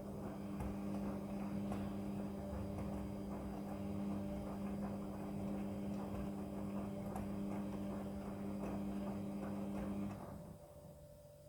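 Midea front-loading washing machine running mid-wash: a steady motor hum over a busy crackling wash noise, which cuts off about ten seconds in.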